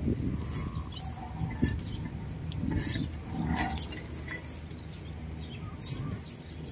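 Small birds chirping in short, high notes that repeat every half second or so, over a steady low rumble.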